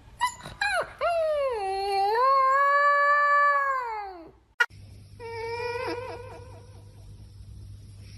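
A pet's long drawn-out vocal call that rises, holds for about two seconds and falls away. After an abrupt cut about four and a half seconds in, a second, wavering call follows with quick dips in pitch.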